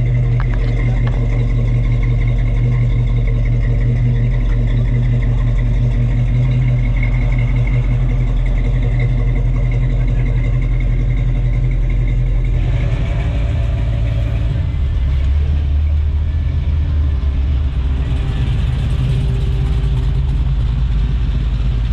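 Plymouth GTX V8 running at a steady idle, heard close to its exhaust tailpipe. About 13 seconds in, the sound cuts to a different car's engine, lower in pitch, as the car drives slowly past.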